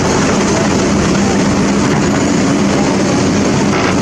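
A heavy engine running steadily: a constant low hum under a dense, even rushing noise that never changes.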